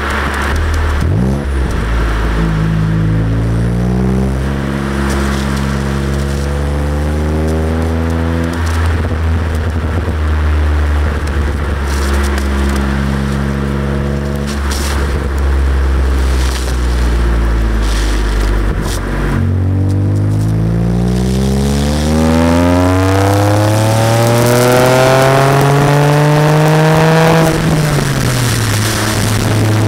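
BMW E90 335i's turbocharged inline-six through an Autobahn Exotics exhaust with catless downpipes, heard close to the tailpipes. It pulls up in pitch and levels off several times, then makes one long climb over about seven seconds before the pitch drops sharply near the end. Wind rumbles on the microphone for much of the time.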